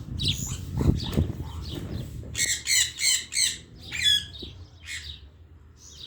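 Parrots squawking and chirping, with a run of four harsh, raspy squawks in quick succession a couple of seconds in. There are a few low knocks about a second in.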